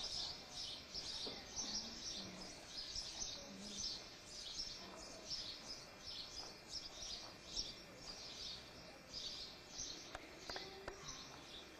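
Small birds chirping faintly, a steady run of high chirps about two or three a second.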